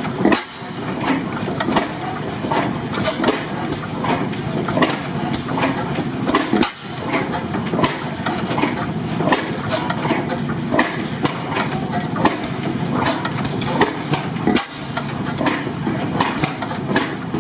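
Antique stationary gas engines running at steady speed, with a dense stream of sharp clicks and knocks over a low engine hum.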